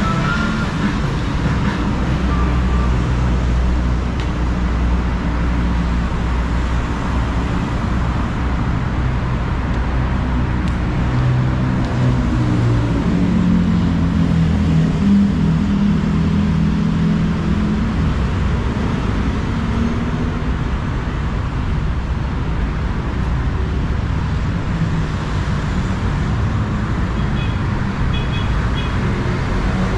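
BTS Skytrain electric train running between stations: a steady rumble and rolling noise, with a motor hum that shifts in pitch around the middle.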